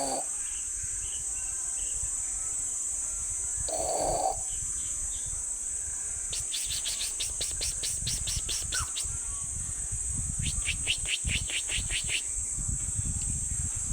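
Steady high-pitched insect drone, with two runs of rapid chirps at about five a second, one past the middle and one shortly after. There is a low rumble of wind on the microphone and two brief mid-pitched sounds near the start and a few seconds in.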